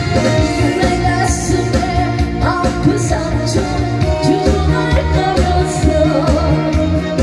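A pumba performer singing over loud amplified backing music with a steady drum beat.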